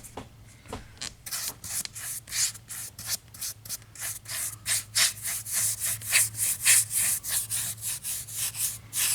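Paintbrush scrubbed back and forth over a model's painted floor, working a weathering wash evenly into the surface in quick rasping strokes, about three or four a second, growing louder after the first few seconds.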